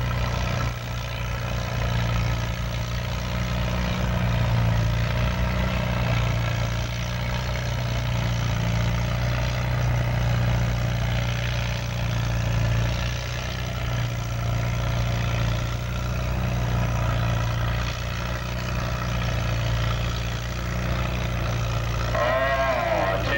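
Antique farm tractor engine running steadily with a low, even drone.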